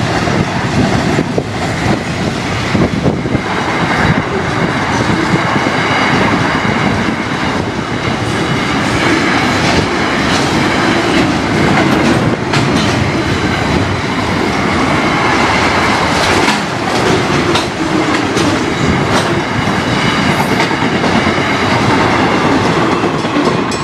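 Freight train of intermodal container wagons passing close by: a steady rumble of steel wheels on the rails, with repeated clicks as the wheels cross rail joints and faint high steady tones from the running gear.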